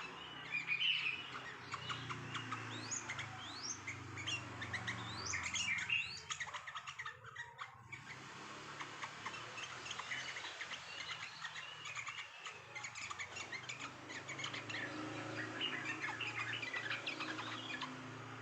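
A busy chorus of many songbirds chirping and chattering at once, full of short overlapping calls and quick rising whistles, thinning briefly about seven seconds in.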